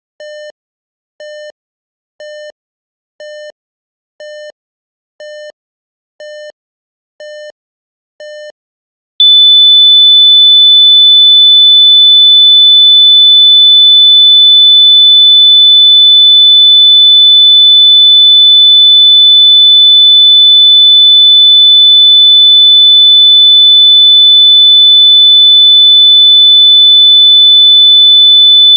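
Electronic test tones for locating earbuds: short, quieter low beeps about once a second, then about nine seconds in a very loud, continuous high-pitched sine-wave tone that holds steady.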